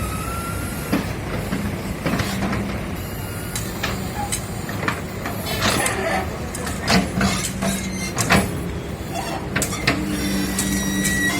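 Street traffic and road-works noise: engines running steadily under scattered sharp knocks and clanks, which come thickest in the second half.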